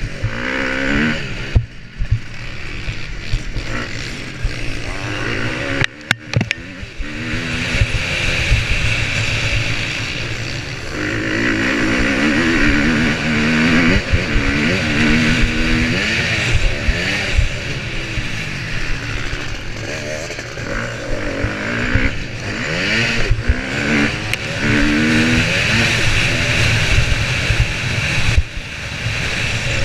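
Motocross motorcycle engine heard up close, revving hard and easing off again and again as the rider accelerates and backs off the throttle. The engine briefly drops away about 2 and 6 seconds in.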